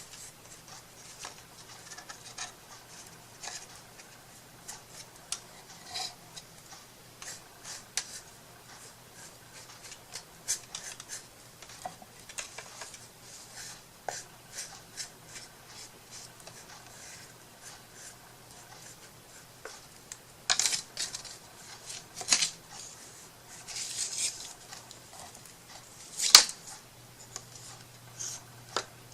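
Hands working on a small wooden craft piece: scattered light scratching, rubbing and ticking. A few louder scrapes come about two-thirds of the way through, followed by one sharp tap.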